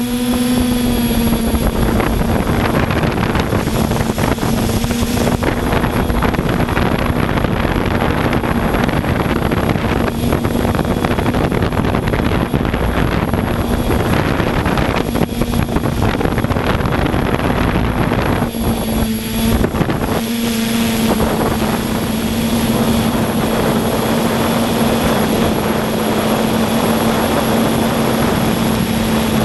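Radio-controlled quadcopter's electric motors and propellers running in flight, a steady buzzing hum over a rushing noise, heard from the craft itself. The hum's pitch wavers and dips briefly about two-thirds through.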